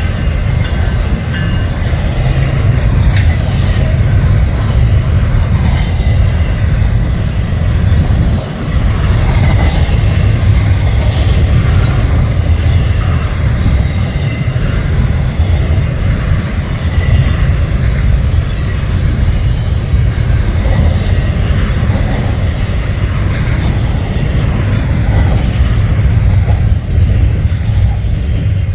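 Freight train passing close by, its cars rolling steadily and loudly along the rails.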